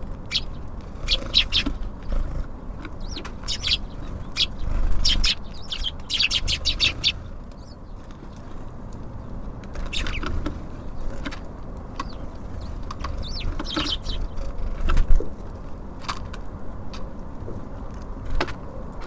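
Small songbirds chirping at a bird feeder in quick runs of short high calls, busiest in the first half, over a low steady rumble.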